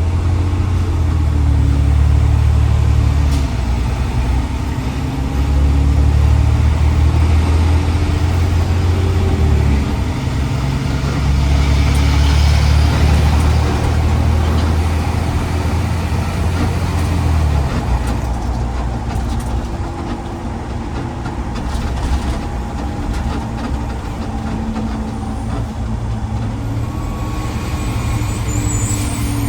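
Diesel garbage truck engine running as it drives, a heavy low rumble that swells and eases several times with the throttle and settles lower in the last third.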